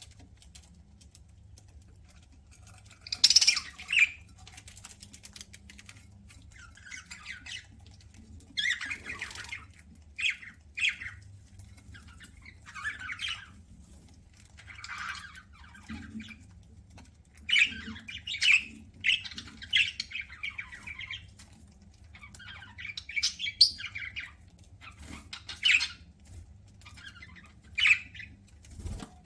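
Pet budgerigars calling in short chirps and squawks, in irregular bursts every second or two.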